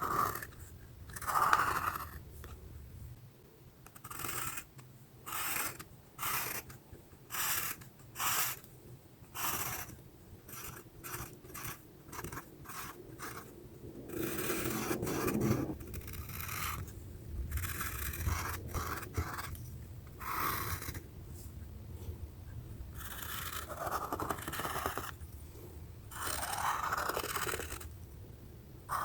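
A drawing tool scratching across paper in a series of strokes. Most are short and come about one a second, and a few are longer, drawn-out strokes, with pauses between them.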